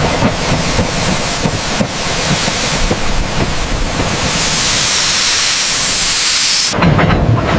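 Loud, rushing hiss that turns brighter and higher about four seconds in, then cuts off abruptly near the end, giving way to a low rumble with clattering clicks.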